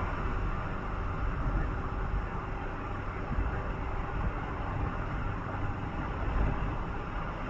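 A vehicle travelling at steady speed: a continuous low rumble of engine and road noise with a hiss above it, unchanging throughout.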